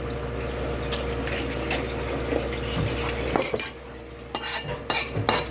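Spoons and forks clinking and scraping against plates while people eat, in scattered clicks that come thicker near the end. Under it a steady low hum runs until it cuts off suddenly a little over three seconds in.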